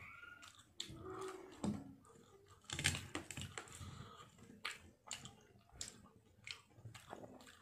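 Chewing and lip smacks of a man eating rice and fish with his hand: a string of short, irregular clicks, along with fingers mixing rice on the plate.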